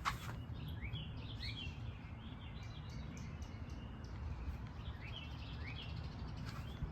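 Small birds chirping in short runs of quick notes, once about a second in and again near the end, over a steady low rumble.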